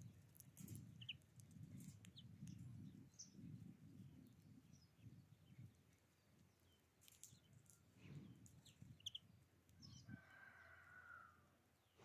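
Faint outdoor bird sounds: a few short, high chirps and small clicks, then a longer call about ten seconds in, over a soft low rumble.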